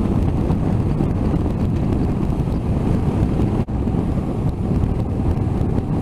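Wind rushing over the microphone of a moving motorcycle, with steady riding noise underneath. It briefly drops out about three and a half seconds in.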